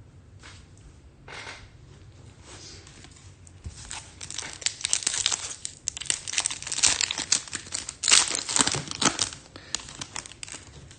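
Foil wrapper of a Topps Chrome trading-card pack being torn open and crinkled: a few soft swishes, then about four seconds in a loud stretch of crackling that dies away near the end.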